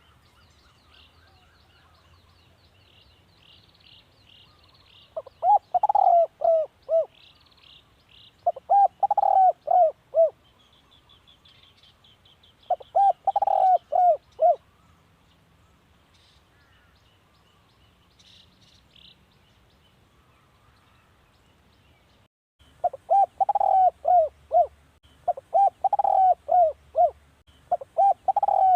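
Spotted dove cooing in phrases of five or six short, hooked coos: three phrases spaced a few seconds apart in the first half, then phrases following one another quickly over the last six seconds. Small birds chirp faintly and high-pitched behind it.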